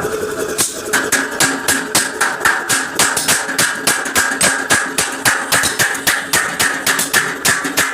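Hammer striking a steel truck bumper over and over, about three or four blows a second, the metal ringing with each blow as a dent is beaten out.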